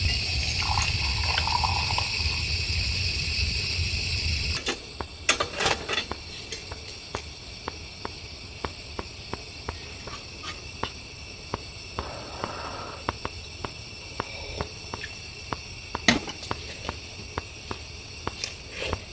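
A steady hiss that cuts off abruptly about four and a half seconds in, followed by the sharp, irregular crackling and popping of wood burning in a hot-tent wood stove.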